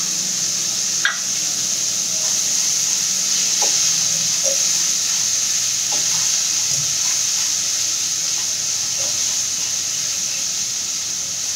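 Steamed vegetables and grated ginger sizzling in oil in a non-stick wok as they are sautéed and stirred with a silicone spatula: a steady frying hiss with a few faint clicks.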